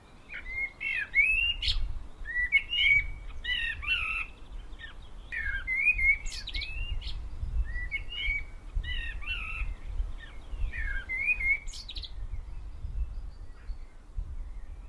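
A songbird singing in short, repeated warbling phrases, stopping about twelve seconds in, over a low steady rumble.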